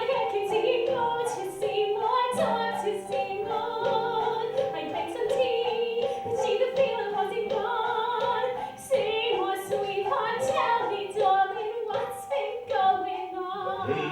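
A woman singing a slow musical-theatre song over instrumental accompaniment, with sustained held notes, in a live stage musical.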